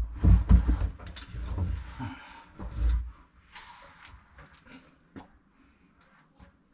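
A run of bumps and knocks from objects being handled, loudest in the first three seconds, then a few faint clicks.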